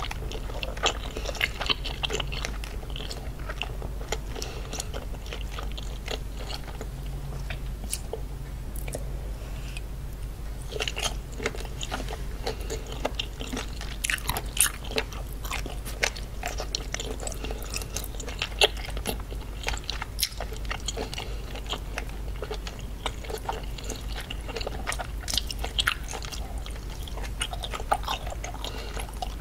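A person chewing seafood (salmon, octopus and scallops) close to the microphone: wet, sticky mouth sounds with many small sharp clicks and crackles, over a low steady hum.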